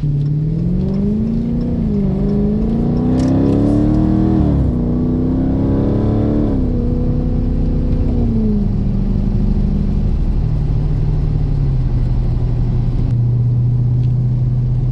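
Dodge Daytona's 392 (6.4-litre) HEMI V8 accelerating through the gears, its pitch climbing and then dropping sharply at two upshifts, about four and a half and six and a half seconds in. It then eases off and settles to a steady cruise.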